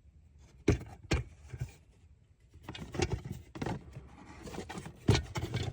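A few sharp knocks and clacks with scraping in between: handling noise as a camera is moved and set in place.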